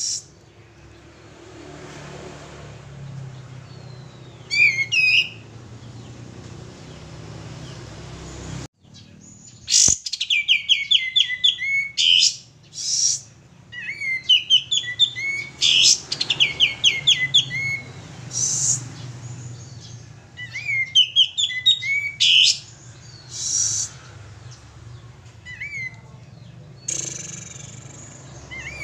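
Male kapas tembak, a bulbul, singing loudly in phrases of fast chattering, sweeping notes, with pauses of a second or more between phrases, over a low steady hum. This is the kind of energetic song used as a lure call for other birds of its kind.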